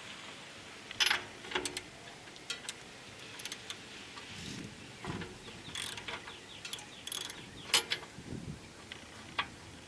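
Scattered metallic clicks and clanks of hand tools working on a small engine, with a few short scraping sounds, as the spark plug is got at for a spark check.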